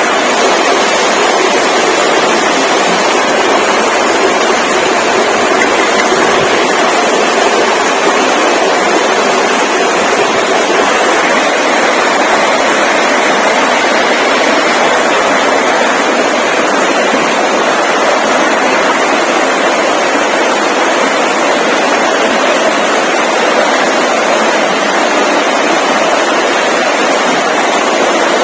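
Steady, loud rushing noise with no breaks and no distinct events, lacking any deep low end.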